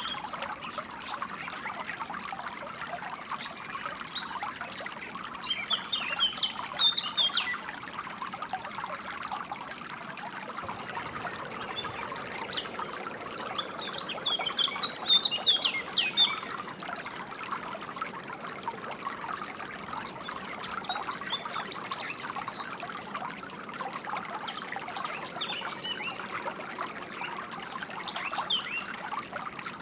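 Steady trickle of flowing water, with songbirds chirping over it in scattered bursts, busiest a few seconds in and again about halfway through.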